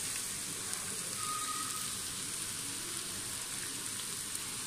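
Steady sizzle of diced vegetables frying in a wok while boiled macaroni is tipped in.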